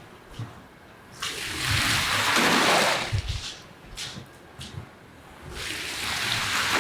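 Water spraying onto a mud-caked carpet in two long swells of hiss, with a few light knocks in the quieter gap between them.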